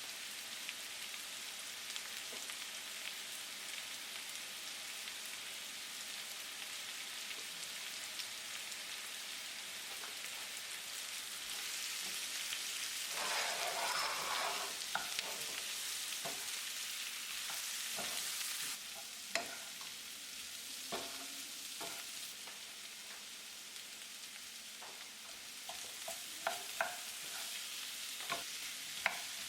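Food sizzling in hot oil in a pan while a utensil stirs it, the sizzle swelling louder for a few seconds in the middle. Then sharp taps of the utensil against the pan, several of them near the end.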